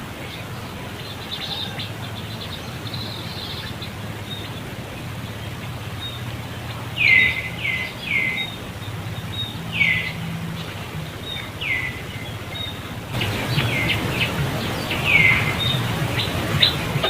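A series of short, high-pitched animal calls, each sliding quickly downward. About seven come in loose clusters starting some seven seconds in, over a steady low background hum.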